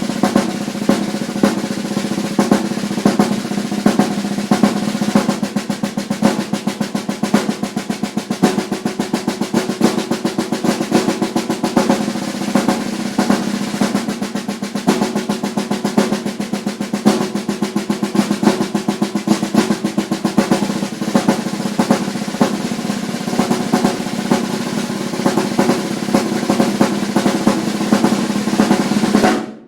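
Snare drum played solo in a fast rudimental style: rapid rolls and strokes with regular accented hits. It stops abruptly just before the end.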